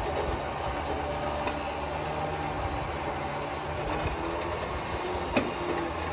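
A vehicle engine idling steadily, with a single sharp metallic knock about five seconds in.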